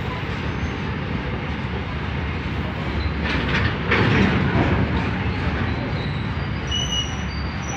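Freight train of open box wagons rolling past: a steady rumble of steel wheels on the rails, with a louder burst of clattering a little after the middle.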